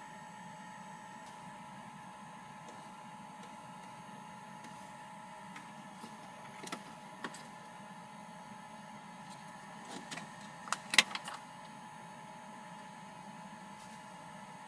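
A steady electrical hum holding a few fixed tones, with scattered sharp clicks and taps, the loudest cluster about ten to eleven seconds in.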